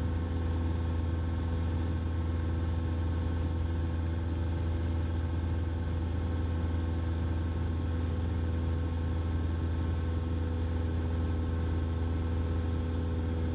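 Cessna 172's piston engine and propeller droning steadily, heard as a low hum through the aviation headset and intercom feed.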